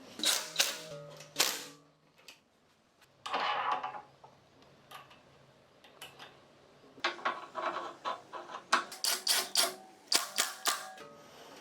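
Sharp metal clanks and knocks, each ringing briefly, in clusters: a few at the start, one burst about three seconds in, and a quick run from about seven to eleven seconds.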